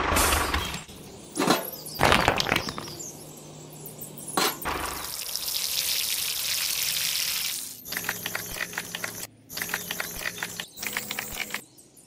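Water is poured over a heap of miniature clay bricks, a steady splashing hiss lasting a few seconds around the middle. Before it come a few sharp knocks, and after it a run of quick clicks and scrapes.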